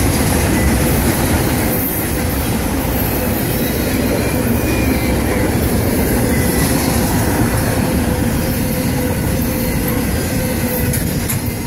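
Freight train cars, autoracks and intermodal trailer flatcars, rolling past close by: a steady, loud rumble of steel wheels on rail.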